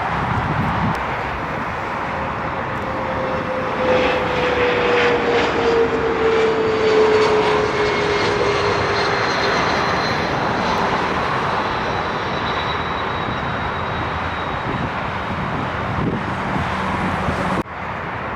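Arriving airliner passing by on its landing approach: a steady jet roar that swells to its loudest about a third of the way in, with engine whine tones sliding down in pitch as it goes past. The sound drops abruptly shortly before the end.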